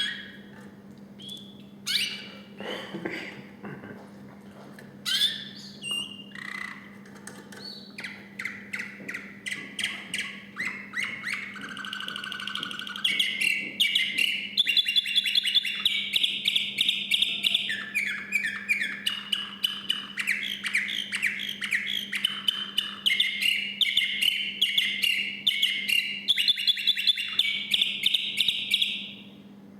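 Male song canary singing: a few separate chirps at first, then from about eight seconds a continuous song of rapid trills and rolls, louder from about thirteen seconds, stopping just before the end. A steady low hum runs underneath.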